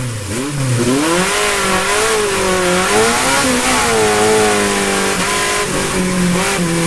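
Car engine revving, its pitch rising and falling repeatedly and then holding steadier, over a loud, steady rushing noise.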